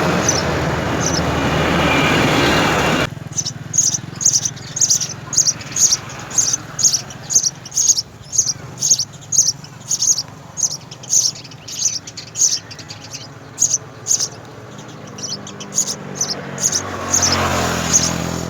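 House sparrows chirping: a steady series of short, high chirps, about two a second, after a loud rushing noise that cuts off abruptly about three seconds in. Near the end a low hum and noise swell up under the chirps.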